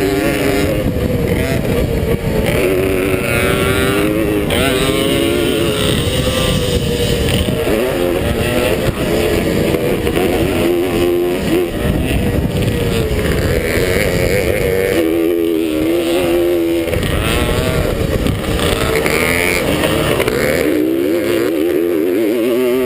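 Vintage motocross motorcycle engine revving up and down again and again as it is ridden hard around the track, heard close over rough noise from the onboard camera's microphone.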